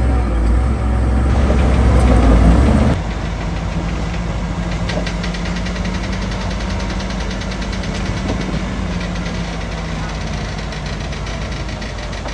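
Heavy construction-machine diesel engine running: deep and loud for about the first three seconds, then an abrupt change to a steadier engine running near idle with a fast, even clatter.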